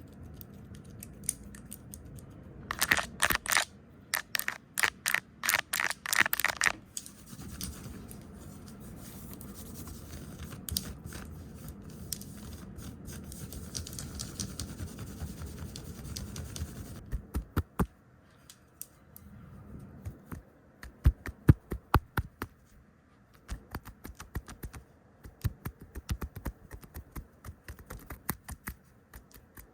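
Close-miked ASMR trigger sounds: quick bursts of tapping and scratching, with a stretch of soft, steady brushing or rubbing in the middle.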